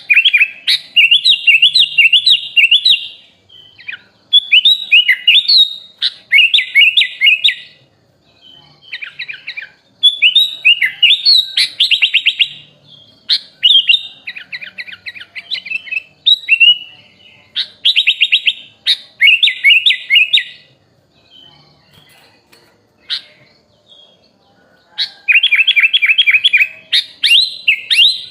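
Kutilang (sooty-headed bulbul) singing in loud bursts of rapid, chirping phrases, each lasting a second or three, with short pauses between them and a longer quiet spell a little past the middle.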